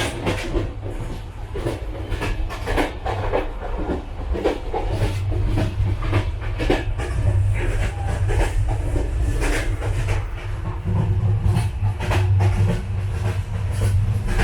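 Passenger train running, heard from inside a coach: a steady low rumble with frequent irregular clicks, knocks and rattles.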